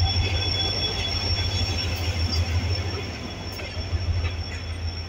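Pakistan Railways HGMU-30 diesel-electric locomotive rolling slowly past the platform as the train arrives: a low, steady engine drone with a steady high squeal from the running gear. The engine sound eases after about three seconds as the coaches follow.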